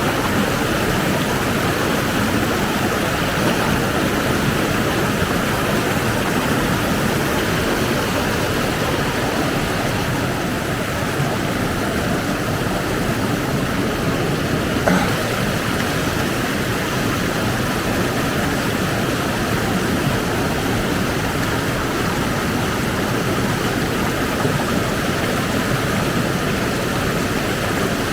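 Steady rushing of white-water river rapids, with a single brief click about halfway through.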